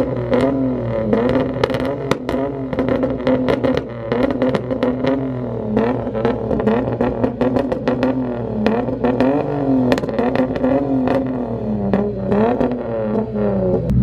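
Tuned car engine revved hard and held high, its pitch swinging up and down about once a second, with many sharp exhaust pops and cracks throughout.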